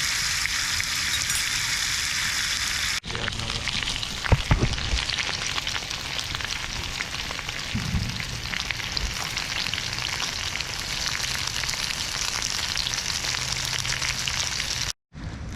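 Chicken and bacon frying in oil in a pan over a campfire: a steady, dense sizzle and crackle, with a few low knocks about four to five seconds in.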